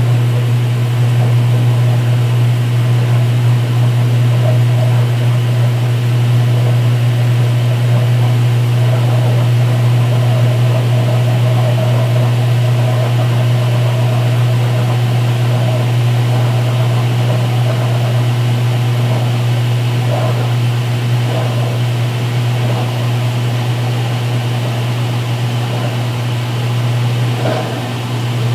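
2016 Speed Queen top-load washer in its final spin-drain: the belt-driven tub spins steadily at speed with a constant low hum while the drain pump runs.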